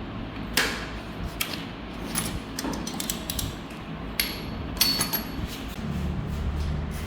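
Irregular sharp taps and clicks of hand work on parts, over a steady low hum.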